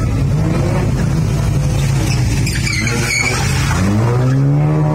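Race car engines at a slalom course: a steady engine drone, then near the end one engine revs up sharply, rising in pitch, close by. A brief high squeal near the middle.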